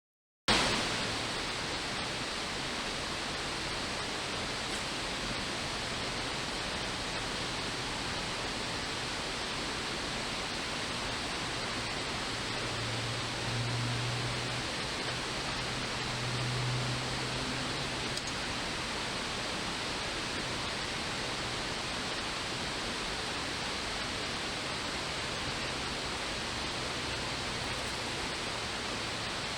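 Steady rush of flowing creek water, an even hiss that starts abruptly after a moment of dead silence. A faint low hum swells twice near the middle.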